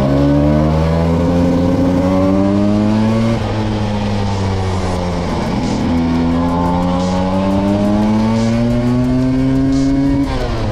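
Vespa V50 scooter's small two-stroke engine running under way. Its pitch climbs as it accelerates for about three seconds, sinks back as it slows, climbs again for about four seconds, then drops abruptly near the end.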